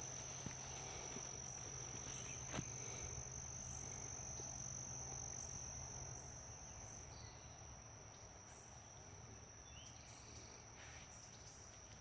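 Steady high-pitched insect chorus of crickets, with a single sharp click about two and a half seconds in.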